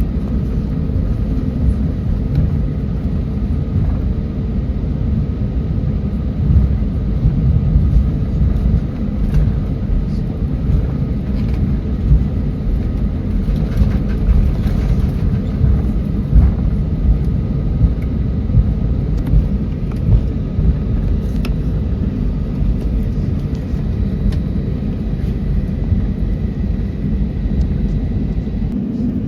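Steady low rumble of a Boeing 737's engines and airframe heard inside the cabin, with a faint steady hum and a few light knocks and bumps scattered through.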